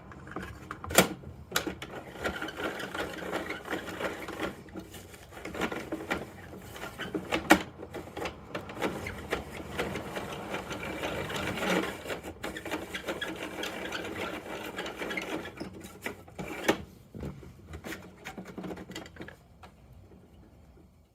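Bruder Mack toy garbage truck being worked by hand: a steady plastic rattling and whirring from its parts, broken by sharp clacks about a second in, about 7.5 s in and about 17 s in, then dying away near the end.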